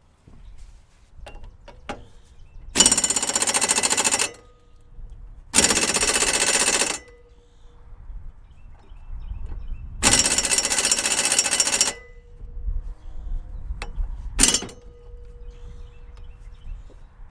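Impact wrench hammering on a stuck mower-deck spindle bolt in three long bursts and a short one near the end, with a light ringing tone after some bursts, as the bolt refuses to break loose.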